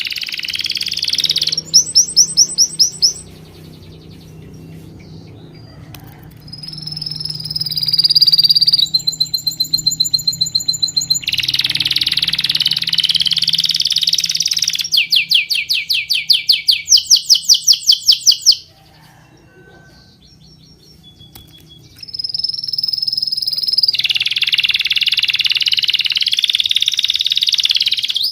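Songbirds singing in a run of separate phrases: fast trills of rapidly repeated notes, a held high whistle, and longer warbling stretches, with two short lulls between them.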